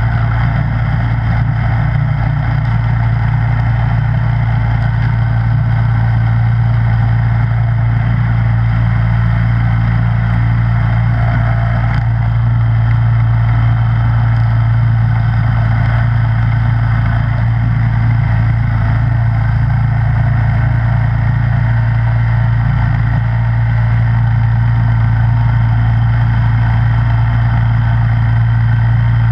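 Snowblower's small gasoline engine running steadily, a constant low hum with no change in speed.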